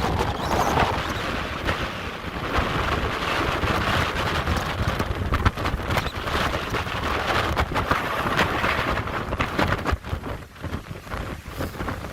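Gale-force storm wind gusting over 70 mph, buffeting the microphone in a continuous rumble and rush, mixed with heavy surf breaking against the cliff below. The wind eases briefly about ten seconds in.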